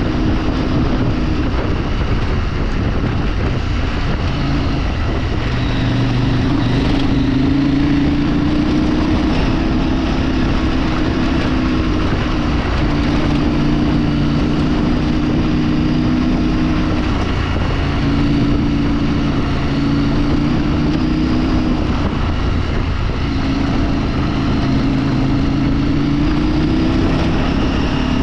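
Vehicle engine running under way, with a steady rush of wind and road noise. The engine note holds steady, fades and returns a few times with small shifts in pitch as the speed changes.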